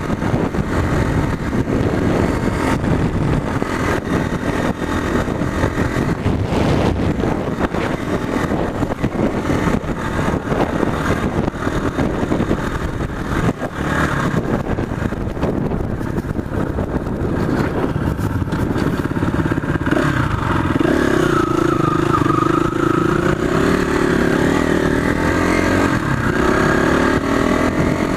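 Motorcycle engine running while the bike is ridden off-road, the note rough and shifting with the throttle. About twenty seconds in it settles into a steadier pitch.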